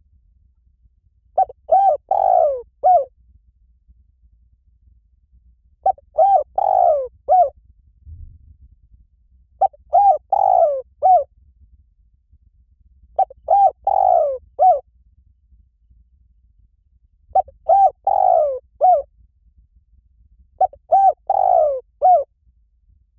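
Spotted dove cooing: six repeated phrases of several short coos each, about every three and a half to four seconds. It is a call recording used to lure spotted doves.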